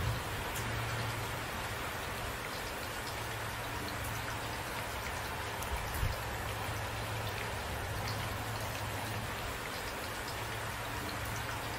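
Steady rainfall with individual drops landing on a surface, and one louder drop hit about six seconds in.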